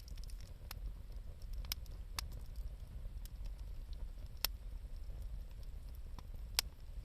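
Wood bonfire crackling: scattered sharp pops, the loudest about four and a half and six and a half seconds in, over a low steady rumble.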